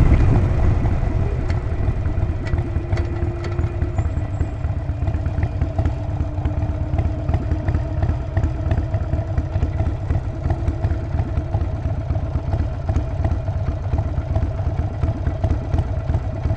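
Harley-Davidson Sportster 48's 1200 cc air-cooled V-twin and exhaust running at low revs with a steady pulsing beat, after easing off from louder running in the first second or two.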